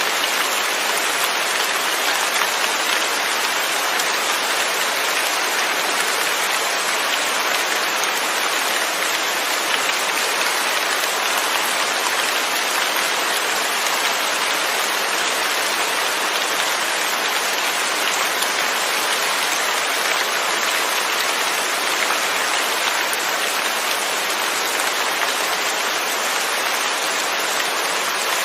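Steady rain falling on a surface, an even, unbroken hiss of drops with no thunder.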